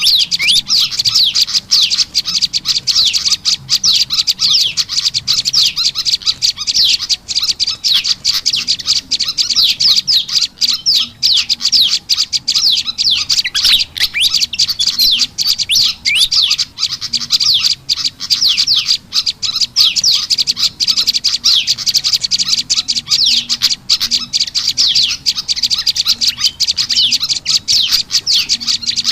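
Bird-lure recording of prenjak lumut calls mixed with fantail (kipasan) calls: a loud, dense, unbroken stream of rapid high chirping notes.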